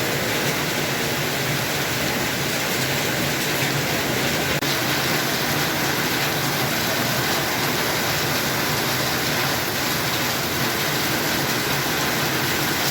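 Heavy rain falling, a steady loud hiss, with a brief break about four and a half seconds in.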